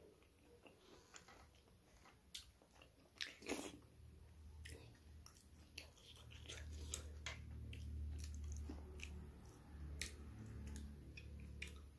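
Close-up mouth sounds of a person eating by hand: chewing with wet lip smacks and short clicks, one stronger smack about three and a half seconds in. A low steady hum sets in at about four seconds.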